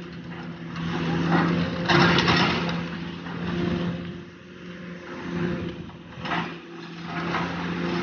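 A heavy demolition machine's engine running steadily, with loud noisy bursts about two seconds in and again around six seconds.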